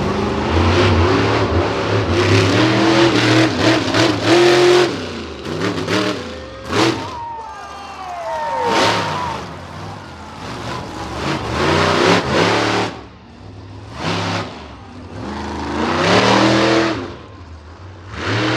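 Monster truck engine revving hard in repeated surges, its pitch climbing and falling with each burst of throttle.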